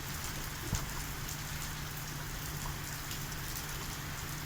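Downpour: heavy rain falling steadily, with the odd single drop striking close by.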